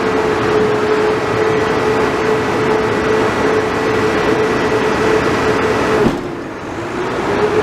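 Front-loader garbage truck's diesel engine running with a steady whine. About six seconds in it drops off suddenly, then the pitch climbs back up near the end.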